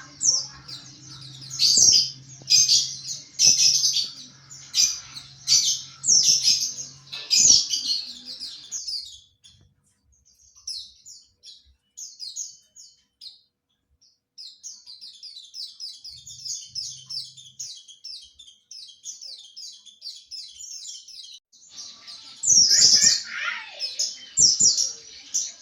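White-eye (pleci) singing its chattering 'ngriwik' twitter: high, quick phrases about once a second, then a long, quieter run of rapid short notes, and louder phrases again near the end.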